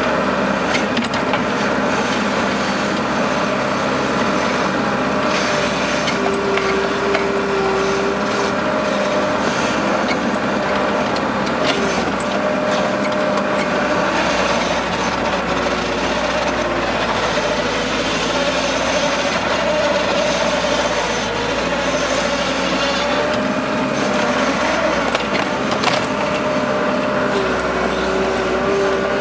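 Case skid steer loader's diesel engine running steadily while working, with a whine that wavers in pitch and frequent clicks and knocks over the din.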